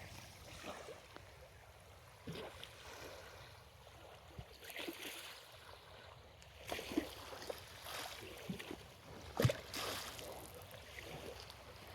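Small waves lapping at the beach shoreline, washing in and out in soft swells, with one sharper slap about nine and a half seconds in.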